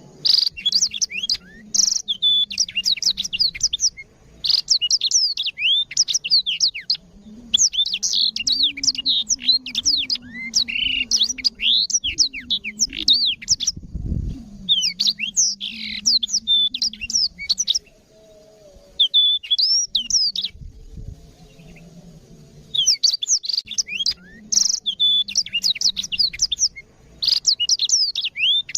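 Black-throated canary singing in long, fast, high-pitched twittering phrases, bursts of varied trills and chirps broken by short pauses. A faint low hum sits beneath, with a single dull thump about halfway through.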